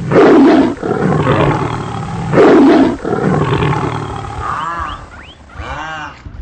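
Two loud animal roars about two seconds apart, each trailing off into a rough rumble; near the end, shorter pitched animal calls that rise and fall.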